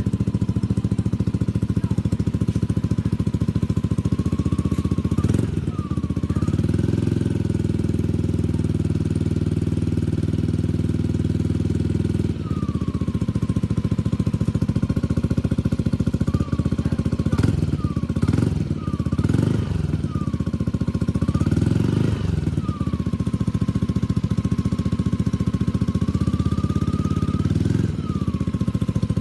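Yamaha Aerox scooter's single-cylinder engine running through an aftermarket racing exhaust, idling and being revved several times, with a short burst of quick blips in the middle.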